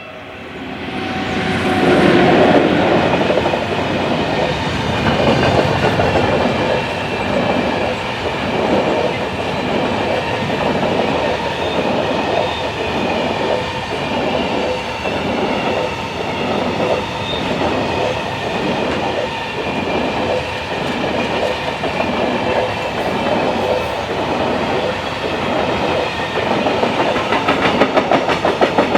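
Freight train of Talbot hopper wagons behind an ET22 electric locomotive rolling past over a level crossing. It swells up over the first two seconds, then the wagon wheels clatter in a steady rhythm over the rail joints, a bit more than one knock a second.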